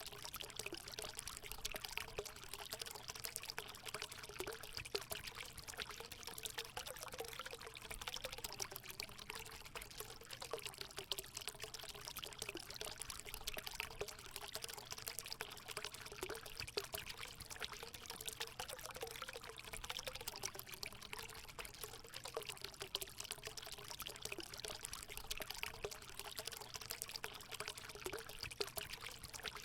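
Natural water running and pouring steadily into a hot spring, a continuous rush of water with a low, wavering gurgling note beneath it.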